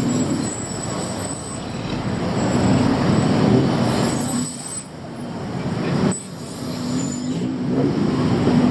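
Busy city street traffic: engines running and vehicles passing in a steady, loud rumble that dips briefly twice in the middle.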